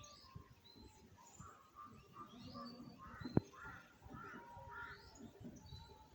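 Several wild birds calling at dawn, with a run of short, repeated arched calls in the middle, crow-like caws among them. A single sharp tap or click about three and a half seconds in.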